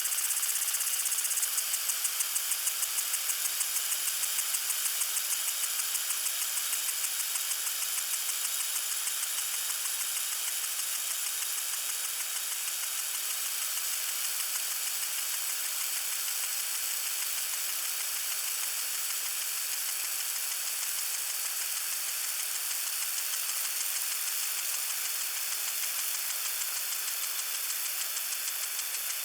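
Lawn sprinkler spraying water: a steady, high hiss with a fast, even pulsing.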